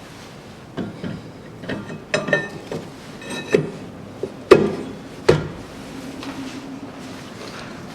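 Metal parts and tools being handled in a workshop: a string of clinks and knocks, some briefly ringing, the loudest two sharp knocks about four and a half and five seconds in.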